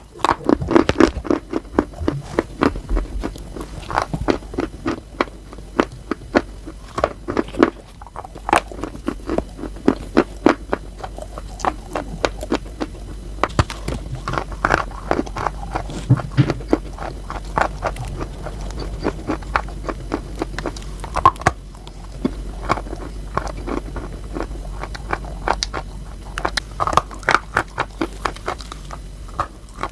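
Close-miked crunching of something brittle being bitten and chewed: dense, irregular crunches and crackles, several a second, with louder bites standing out now and then.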